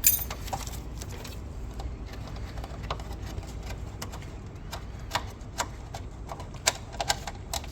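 Irregular light clicks and taps of hand-tool work on car fasteners and plastic fittings, over a low steady hum.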